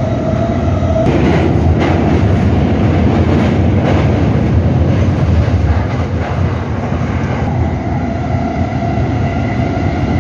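Cabin noise inside a moving electric commuter train: a steady rumble of wheels on the rails with a few sharp clacks. A held tone stops about a second in.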